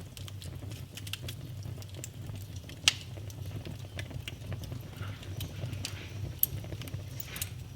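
Wood fire burning in a fireplace, crackling with frequent small snaps over a low steady rumble, with two louder pops, about three seconds in and again past six seconds.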